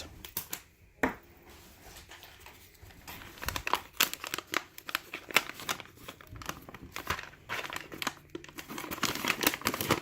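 Packaging crinkling and rustling as it is handled and opened, a run of irregular sharp crackles that gets busier toward the end.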